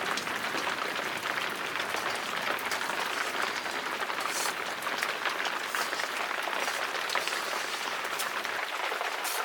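Steady rain, a dense even patter with fine crackling drops.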